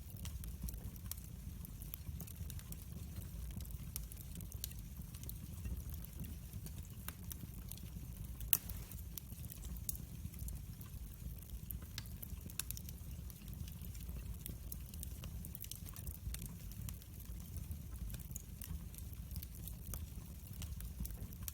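Fireplace fire crackling, with scattered small pops over a low steady rumble and one sharper, louder pop partway through.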